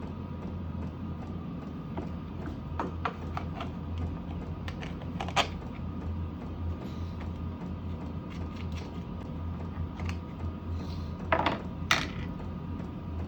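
Scattered clicks and knocks of tools and metal parts being handled while a small petrol generator is reassembled, the loudest about five and a half seconds in and a pair near the end, over a steady low hum.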